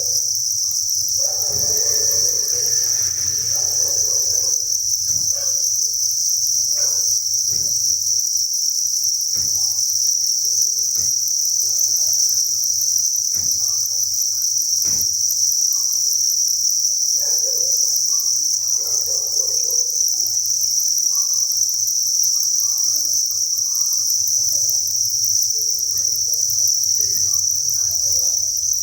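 Dense chorus of many crickets chirping together: a steady, high-pitched, pulsing trill that never breaks. Faint scattered clicks and taps sound underneath it.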